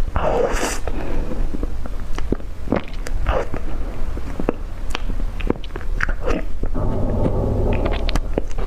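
Close-miked mouth sounds of someone eating: biting and chewing, heard as a run of short, irregular clicks and smacks.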